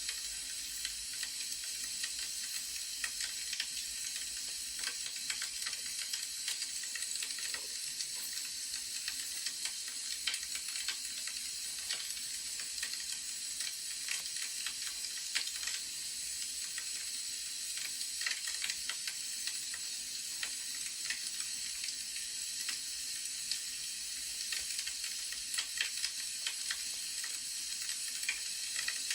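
Wood fire crackling: a steady hiss with many scattered small pops and crackles.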